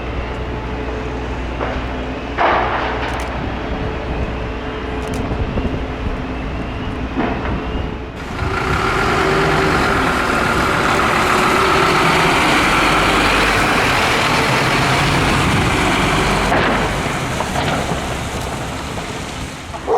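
Fire appliance diesel engines running, with a short sharp sound about two and a half seconds in. From about eight seconds to sixteen seconds a louder, steady noise with a few held tones takes over, starting and stopping abruptly.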